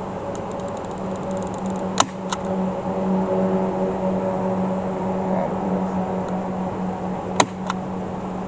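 Honeybees buzzing steadily around an open hive, a low, even hum. Two sharp clicks come about 2 seconds and 7.4 seconds in, each followed by a fainter one.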